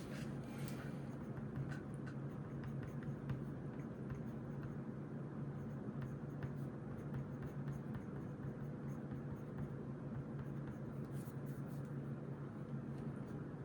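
Pencil or pen writing on notebook paper: faint, irregular scratching strokes over a steady low hum.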